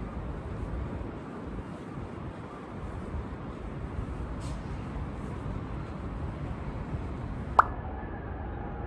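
Steady low background rumble, with one sharp tap near the end followed by a faint short ringing tone.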